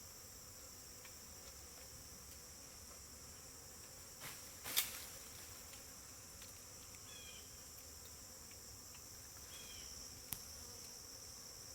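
Faint, steady insect buzzing from a large honeybee swarm clustered in a tree. One sharp knock about five seconds in, the loudest thing heard, and a smaller click near the end.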